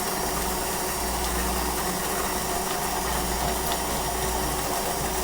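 Electric kitchen mixer running steadily as it mixes a milkshake: a constant motor whir over a low hum.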